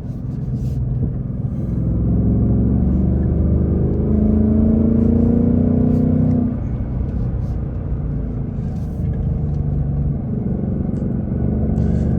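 2024 Ford Mustang GT's 5.0-litre Coyote V8 running through its active exhaust under way, the revs climbing for about two seconds from around four seconds in, then dropping back and settling to a steadier, quieter run.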